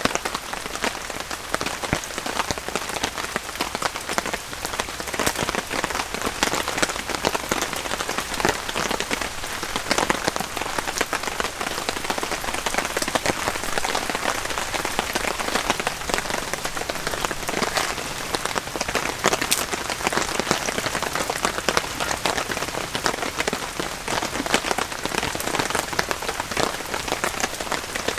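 Steady rain falling, with countless individual drops ticking close by in a dense, even hiss.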